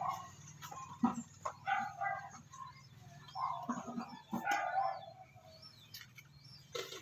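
A Persian cat meowing and wailing several times, a cat that does not want to be bathed, the loudest calls about halfway through. A few sharp knocks come in between.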